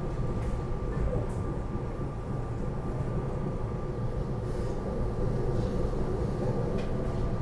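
Running noise heard inside a SEPTA Regional Rail electric commuter train car: a steady low rumble of the train in motion, with a faint steady whine over it.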